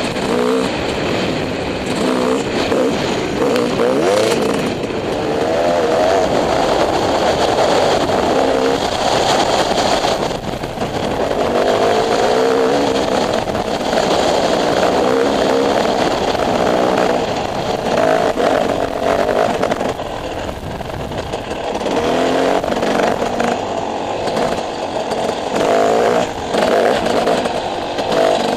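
Dirt bike engine running under constant throttle changes as the bike is ridden, its pitch rising and falling. It eases off briefly about ten seconds in and again around twenty seconds in.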